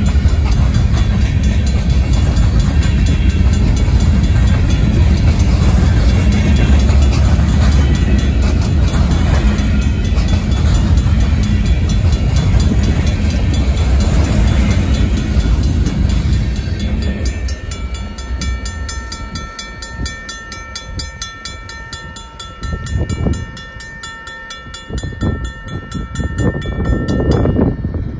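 Union Pacific grain train of covered hopper cars and boxcars rolling past with a steady rumble of wheels on rail. About two-thirds of the way through, the last car clears and the rumble drops away, leaving the Safetran mechanical crossing bell ringing in rapid, even strokes, with a few low thuds. The bell stops suddenly near the end.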